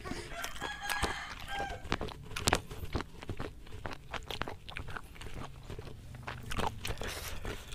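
Close-up chewing of grilled goat testicle on the skewer, with irregular wet mouth clicks and smacks.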